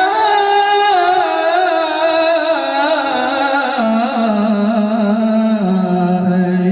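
Islamic sholawat singing: a solo voice holds one long, ornamented melismatic note with a wavering vibrato, stepping down in pitch about halfway through.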